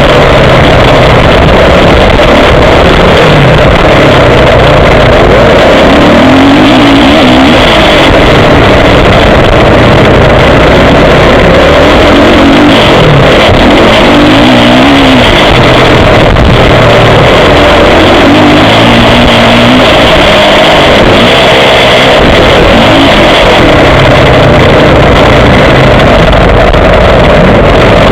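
Motocross motorcycle engine revving up and down repeatedly as the rider opens and closes the throttle. The onboard recording is overloaded and heavily distorted.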